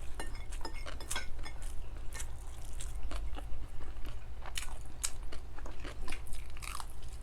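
Close-miked chewing and crunching of crispy fried milkfish (daing na bangus), a run of irregular wet clicks and crackles, over a steady low hum.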